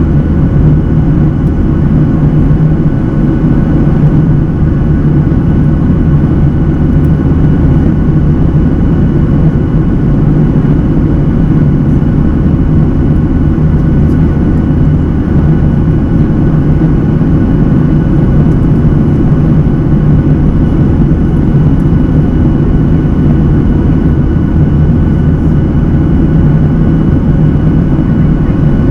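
Steady cabin noise of a Boeing 737-800 under way, the CFM56-7B engines and airflow giving an even low rumble with a constant hum.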